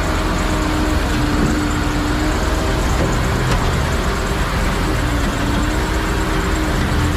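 Heavy vehicle engine running steadily, with a held hum over continuous road noise.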